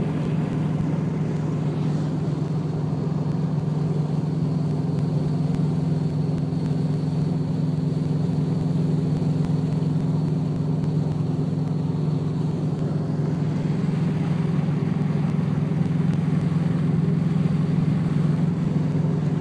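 Subaru WRX turbocharged flat-four with a catless, unsilenced 3-inch Invidia N1 Race turbo-back exhaust, cruising at steady partial throttle in 5th gear at about 65 mph, heard through an open car window. It makes a steady, even low drone, with a faint higher tone that fades about two-thirds of the way through.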